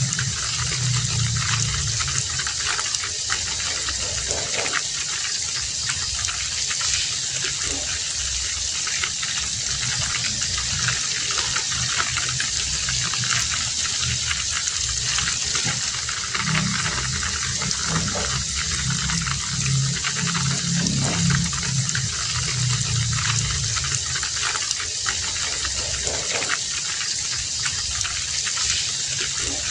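Heavy rain falling steadily, with a low rumble that swells and fades several times.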